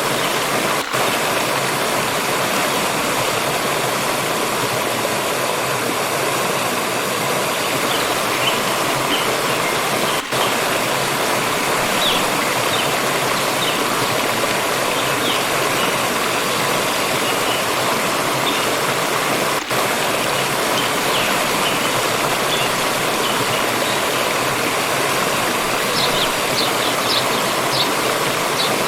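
Water stream rushing and splashing over rocks in a steady, dense wash. Faint short high chirps come in from about a third of the way through and grow more frequent near the end. The sound briefly dips three times.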